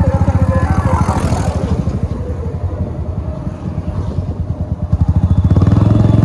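Yamaha MT-15's single-cylinder engine running under way, with a fast, even exhaust pulse. A brief rush of noise about a second in, and the engine grows louder about five seconds in as the throttle opens.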